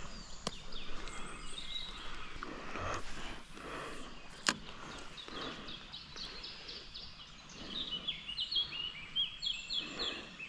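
Songbird singing: a run of short, quickly repeated high notes through the second half, over soft rustling and handling noises, with one sharp click about four and a half seconds in.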